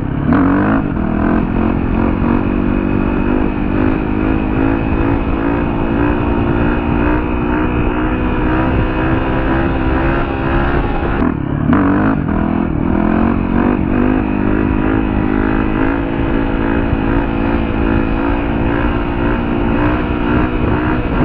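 Dirt bike engine running under way, its pitch climbing at the start, then cutting back briefly about eleven seconds in before climbing again.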